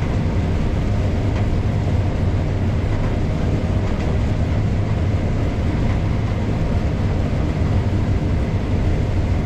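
Case IH 7230 combine harvester running steadily while harvesting corn with a draper header: an even, low drone that does not change.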